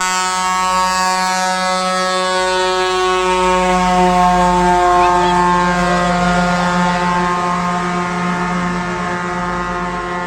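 Truck air horn held in one long continuous blast of about ten seconds, starting and stopping abruptly, its pitch sinking slightly as the truck passes.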